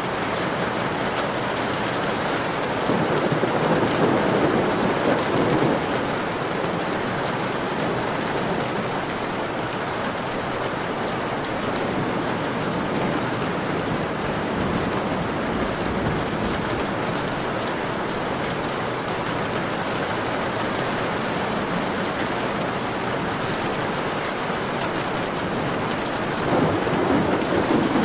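Steady rain pattering on a window pane, with low rolls of thunder swelling up about three seconds in and again near the end.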